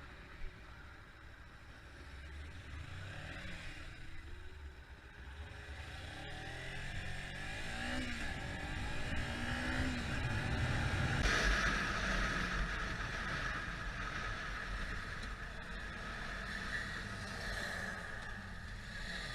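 A vehicle engine accelerating, its pitch rising and dropping back several times as it shifts through the gears. From about eleven seconds in, a louder steady rushing noise joins it.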